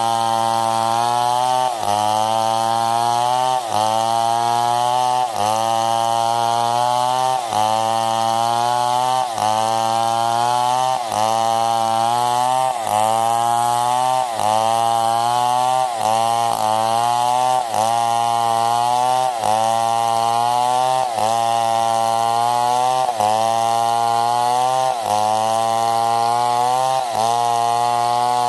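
Stihl 070 two-stroke chainsaw cutting wood under load. Its engine pitch dips sharply and climbs back again about every two seconds as the chain bites and frees in the cut.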